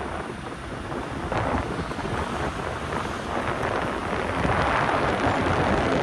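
Wind rushing over the microphone of a moving e-bike, getting louder toward the end as the speed picks up.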